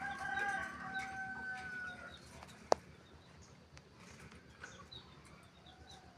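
A rooster crowing faintly: one long held call of about two seconds that trails off at the end. A single sharp click follows, then faint short high chirps.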